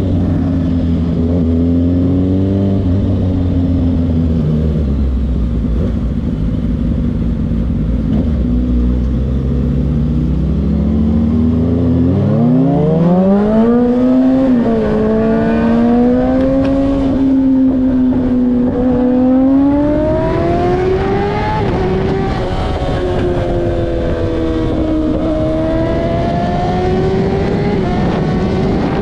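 Kawasaki ZX-6R inline-four sportbike engine running at low revs for about twelve seconds, then revving up sharply and climbing higher, its pitch dipping briefly several times as it rises.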